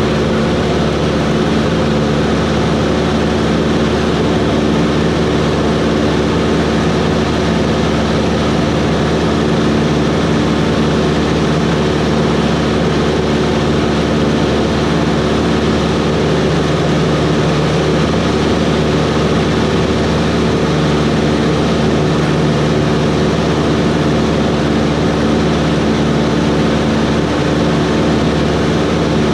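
Cessna 140's piston engine and propeller running steadily at constant power, a loud even drone with no change in pitch.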